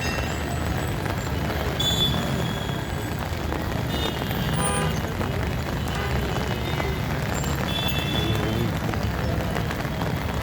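Traffic noise of a jammed city street: a steady rumble of vehicles with short horn toots several times.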